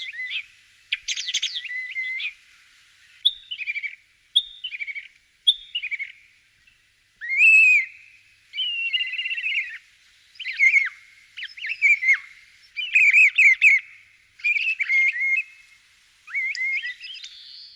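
A songbird singing a series of short, varied chirping and whistled phrases, about a dozen in all, with brief pauses between them; the loudest phrase comes about halfway through.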